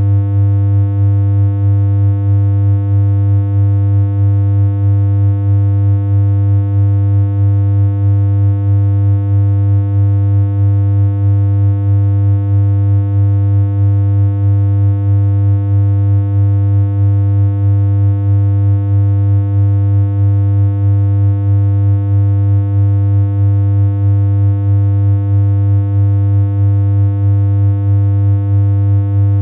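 Steady synthesized electronic hum: one low buzzing tone held without any change in pitch, with a slight regular pulsing in loudness.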